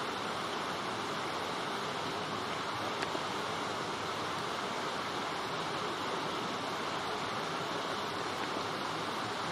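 Light rain falling steadily on leafy vegetation: an even hiss that does not change, with one faint tick about three seconds in.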